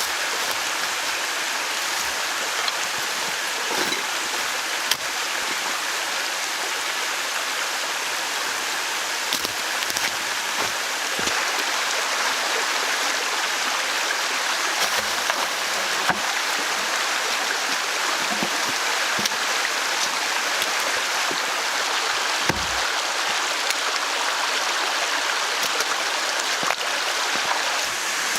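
Steady rushing of flowing water, like a forest stream, with a few faint knocks scattered through it.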